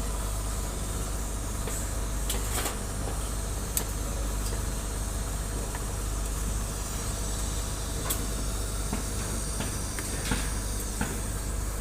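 Argon-shielded TIG welding on a 316L stainless steel plate: a steady hiss over a low electrical hum, with a few sharp clicks scattered through it.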